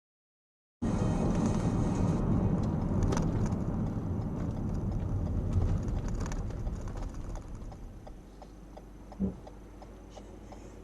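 A car's road and engine noise, loud and rumbling at first, then dying away as the car slows. Once it has gone quiet, a steady ticking comes through, with a single thump near the end.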